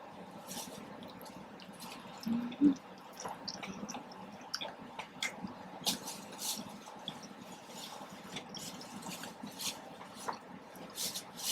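Close-up chewing and wet mouth clicks from someone eating soft-shell street tacos, scattered quiet smacks throughout, with a brief low hum about two seconds in.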